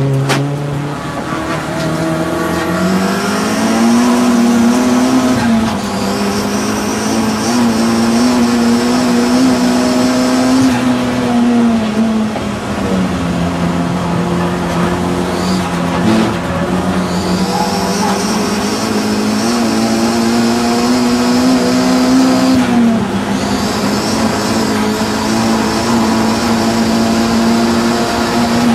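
Audi TT saloon race car's engine at hard throttle, its pitch climbing and holding, then dropping twice as the throttle comes off. A high whine cuts in and out with it.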